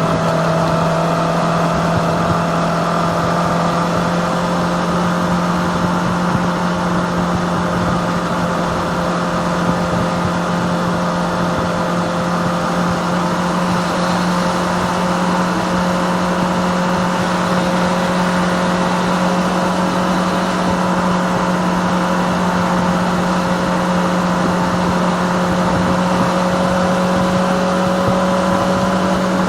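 Kawasaki ZX-25R's 250cc inline-four engine running steadily at a constant cruise, its pitch creeping up only slightly, over a haze of road and wind noise.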